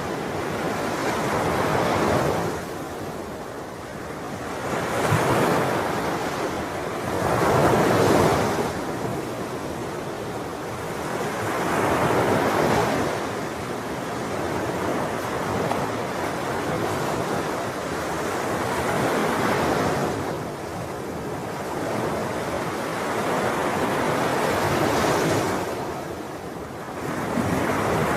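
Ocean waves breaking and washing on the shore, the surf rising and falling every few seconds, with wind on the microphone.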